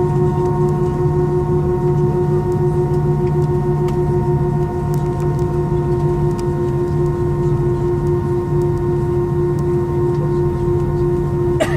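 Airbus A320's engines running steadily at idle, heard from inside the cabin: a low rumble with several steady humming tones that do not change in pitch. A brief knock comes near the end.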